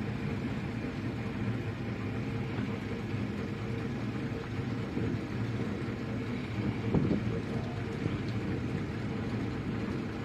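Boat engine running steadily, a low even drone, with one brief knock about seven seconds in.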